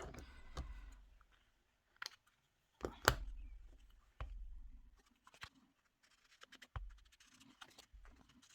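A series of sharp taps and knocks on a craft work table, roughly once a second, with light scratching and paper handling between them.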